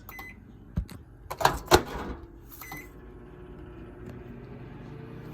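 Microwave oven keypad beeping, then the microwave slammed several times with loud knocks to get it to work. A second beep follows, and the oven starts with a steady hum.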